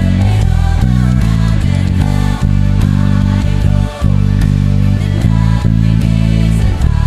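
Electric bass guitar playing a worship song's bass line over a full band track, its low notes changing about twice a second, with two short breaks in the middle.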